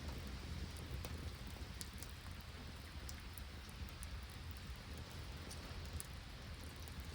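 Rain and sleet falling steadily, with scattered sharp clicks.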